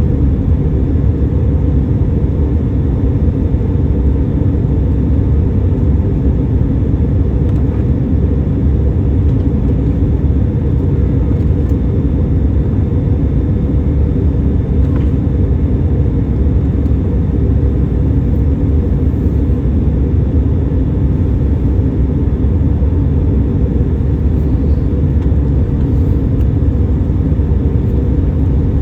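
Steady low rumble of a Boeing 737 in flight, heard inside the cabin: engine and airflow noise, even throughout.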